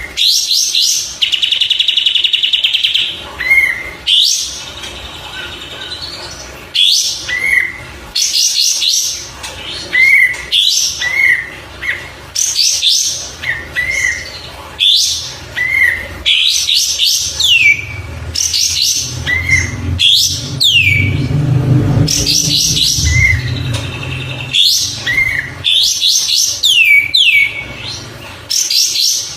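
Kapas tembak bird singing: a repeated phrase of short hooked whistles and fast, high rattling trills, with sharp falling sweeps in the second half. A low hum sits under the song for a few seconds in the middle.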